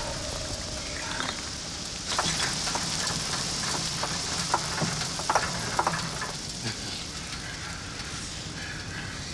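Steady hiss that sets in about two seconds in and slowly fades, with scattered small clicks and knocks.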